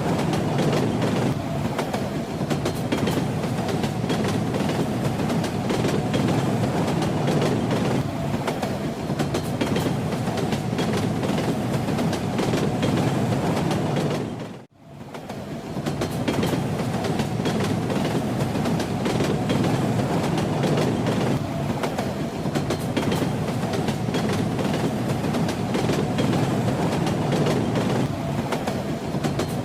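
Train running on rails: a steady rumble with the rattle of the wheels clicking over the rail joints. The sound dips out briefly and fades back in about halfway through.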